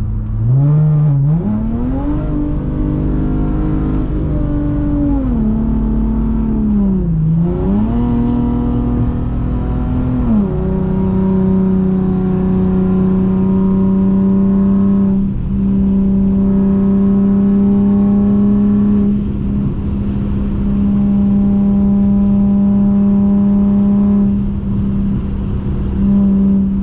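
Infiniti G37x's 3.7-litre V6 engine accelerating hard, its pitch climbing steeply in the first two seconds, dipping around seven seconds in as it shifts, climbing again. It then drops at about ten seconds and runs at a steady pitch, with a few brief lifts of the throttle later on.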